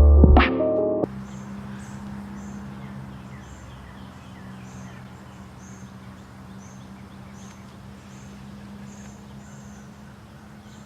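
Background music that cuts off about a second in. Then quiet ambience: a steady low hum under a short, high chirp repeating about twice a second, like a bird call.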